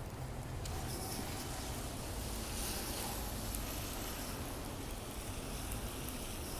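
Steady outdoor hiss of a city street in falling wet snow and rain, with traffic and a low rumble of wind on the microphone.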